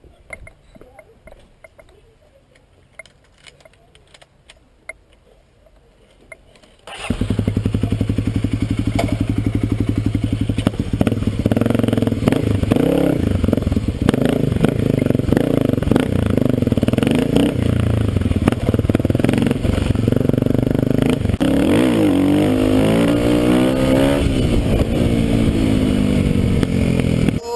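Kawasaki KLX250S dual-sport motorcycle's single-cylinder engine: a few faint clicks at first, then about seven seconds in the engine comes in loud and keeps running hard, with the pitch rising and falling repeatedly in the last few seconds as it is revved.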